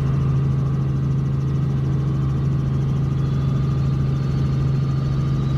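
Robinson R44 helicopter in flight: a steady engine and rotor drone with one strong, unchanging low hum.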